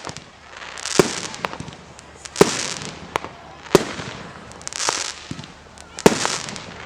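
Display fireworks bursting overhead: a sharp bang every second or so, about five in all, each followed by a second of hissing crackle.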